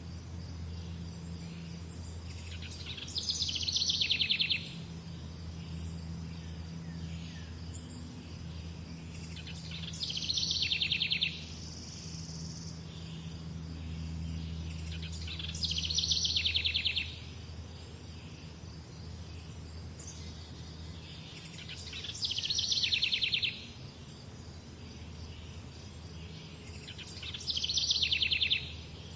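A songbird repeats the same short, rapid trilled song five times, about every six seconds; each phrase falls in pitch from high to lower. A steady low rumble runs underneath.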